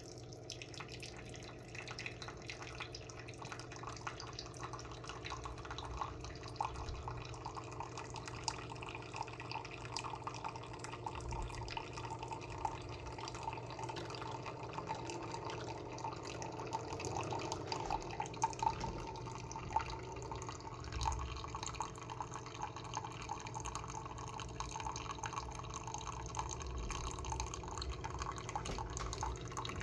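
Spinn coffee maker dispensing brewed coffee into a cup: liquid trickling and dripping with many small ticks over a steady machine hum.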